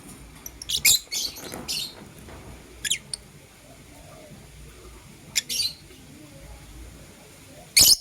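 Pet lovebirds chirping in short, sharp, high-pitched calls: a quick run of several about a second in, a pair around three seconds, another past five seconds and a loud one near the end.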